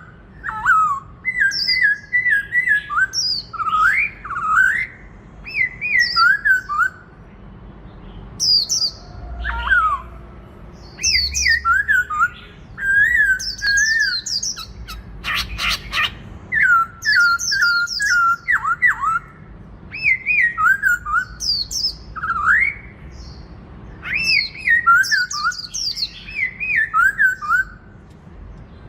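Black-throated laughingthrush singing loud whistled phrases of quick rising and falling notes, repeated every second or two. A brief rattle sounds about halfway through.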